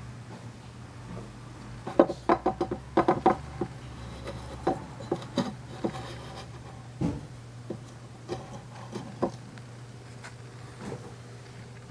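Bird-shaped clay bell (dorei) shaken, giving dull, hollow clinks and rattles with a short ring. They come in a quick cluster about two to three seconds in, then as scattered single clinks.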